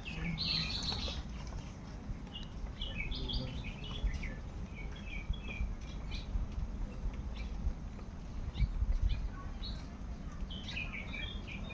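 Birds chirping: short, scattered chirps over a steady low rumbling noise, which swells briefly about nine seconds in.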